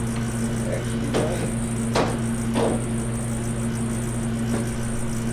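A few sharp metallic clinks of hand tools against metal engine parts during a V8 teardown, about four in all, each ringing briefly, over a steady hum.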